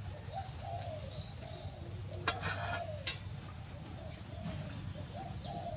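Birds cooing, with repeated short arching calls. A sharp click comes about two seconds in, then a short hiss and a second click.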